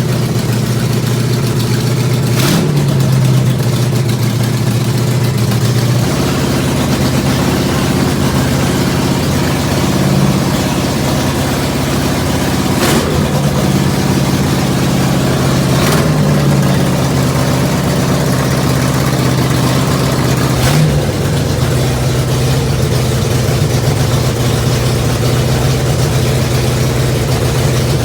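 Oldsmobile 455 big-block V8 running steadily, its speed rising briefly a few times. A few sharp clicks are heard over it.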